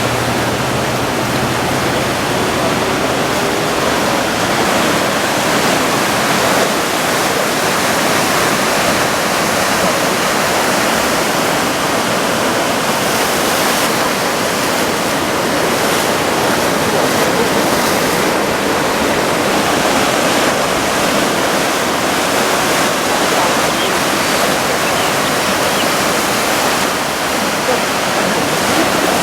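Heavy typhoon surf breaking continuously: a loud, even wash of water noise with no distinct crashes standing out.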